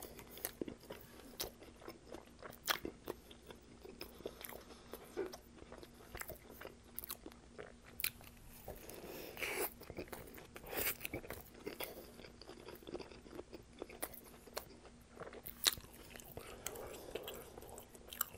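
Close-up mouth sounds of chewing a saucy turkey, salami and olive sub: bites, small crunches of crusty bread and wet mouth clicks at irregular intervals.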